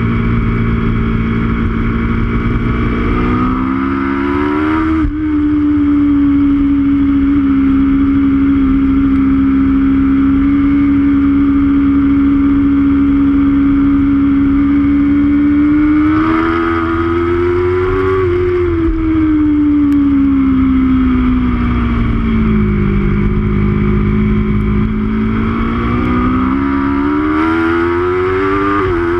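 Aprilia RSV4's V4 engine at track speed, picked up by an on-board camera: the engine note holds steady at high revs for long stretches, falls away over several seconds past the middle as the rider eases off, then climbs again near the end.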